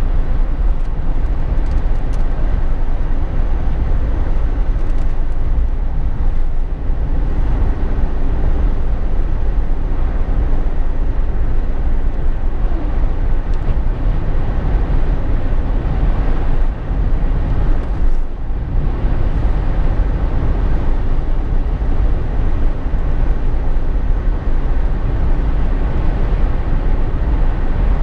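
Steady road and engine noise inside the cabin of a Jeep Wrangler JK on the move: a constant low rumble with tyre and wind hiss over it, dipping briefly about two-thirds of the way through.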